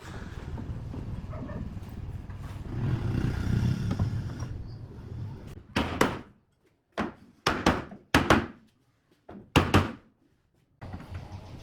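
A steady low hum for about five seconds, then five or so sharp, loud knocks, each followed by near silence.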